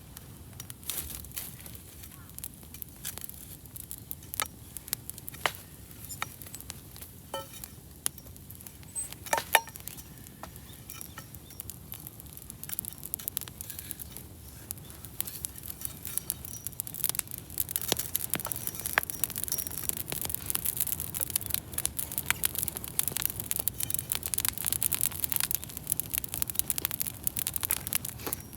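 Wood bonfire crackling, with irregular sharp pops over a soft hiss. One loud pop comes about nine seconds in, and the crackling grows denser in the second half.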